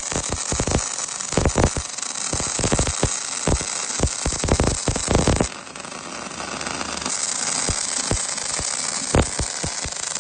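MIG welding arc crackling and sizzling with frequent irregular sharp pops. About five and a half seconds in it dips briefly, then carries on as a smoother, steadier hiss with fewer pops.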